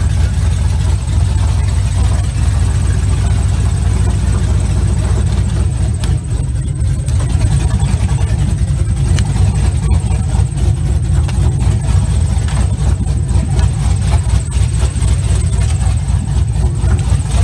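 Pickup truck engine idling steadily, a continuous deep rumble, after being started following transmission work; it stays running.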